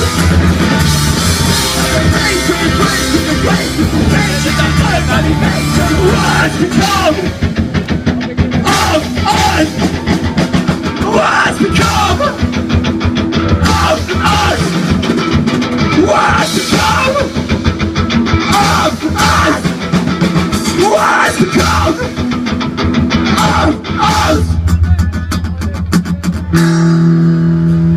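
Live rock band playing a loud, driving instrumental passage, which settles into a held, ringing chord near the end.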